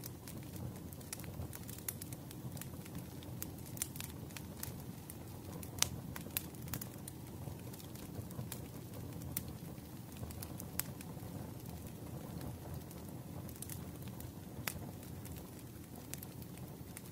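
Wood fire crackling in a fireplace: a steady low rumble with frequent scattered sharp pops and snaps.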